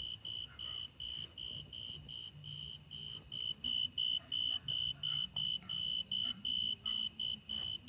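A singing insect chirping without a break: short, clear, high-pitched chirps repeated evenly about four times a second.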